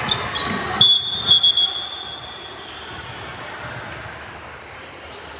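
A referee's whistle blown once about a second in, held for about two seconds, over gym noise with a few sharp basketball bounces on the court.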